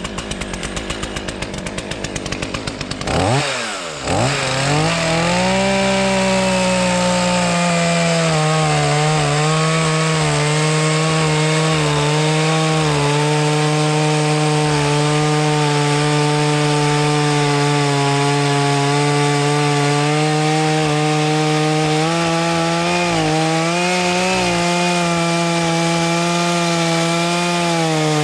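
Two-stroke chainsaw ticking over at idle, then revved up at about three seconds and held at high, steady revs while cutting into wood. The pitch dips a little under load a few seconds before the end.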